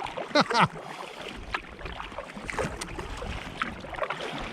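Paddling an inflatable kayak: irregular soft splashes and knocks of paddle strokes, with wind on the microphone. About half a second in, two loud, short squeals drop sharply in pitch.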